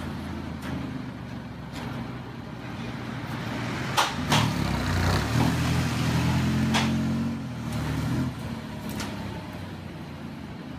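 Alfa Romeo Giulia's engine running at low revs as the car creeps forward, the engine note swelling for a few seconds around the middle and then settling back. A few short, sharp clicks sound along the way.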